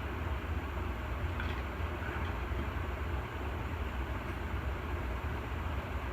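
Steady low rumble and hiss of air moving as a 36-inch Gulf Coast Industrial ceiling fan coasts down after being switched off; the motor itself runs silent.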